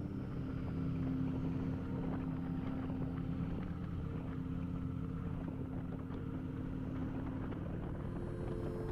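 Kawasaki Vulcan motorcycle engine running steadily while riding, with wind and road noise. The steady engine note changes near the end.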